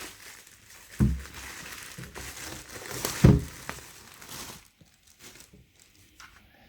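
Packaging crinkling and rustling as a kettle is unwrapped and lifted out of its box, with two dull thumps about one second and three seconds in; the rustling stops after about four and a half seconds.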